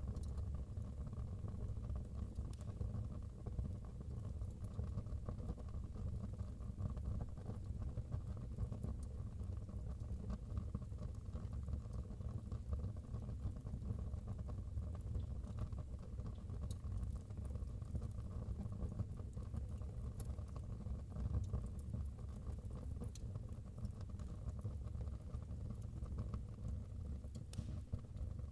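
Wood fire burning in a fireplace: a steady low rumble with scattered small crackles.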